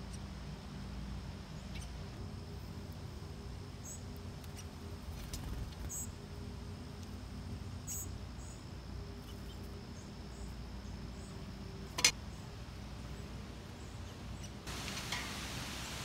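Faint, short, high bird chirps every couple of seconds over a low steady hum of outdoor background. There is one sharp click about twelve seconds in, and a rise in hiss near the end.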